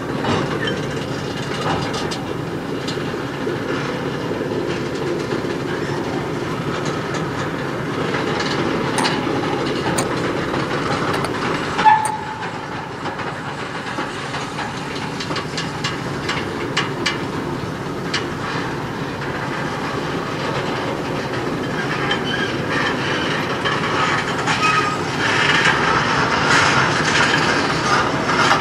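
Freight train tank cars rolling past close by: a steady rumble of steel wheels on the rails with clicking over the rail joints. A short, sharp high-pitched note stands out about twelve seconds in, and the rolling noise grows louder and brighter near the end.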